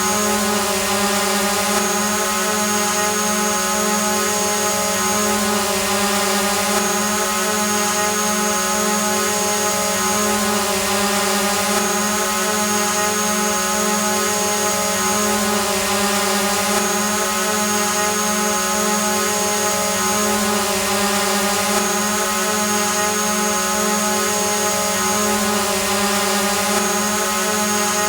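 Drone hovering: a steady hum of spinning propellers with many even overtones, wavering slightly in pitch, over a hiss and a thin high whine.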